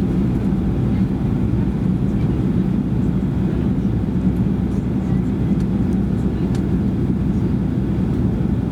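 Steady cabin noise inside a Boeing 737-800 airliner in flight: the low drone of its CFM56-7B turbofan engines and airflow over the fuselage, with a faint hum underneath.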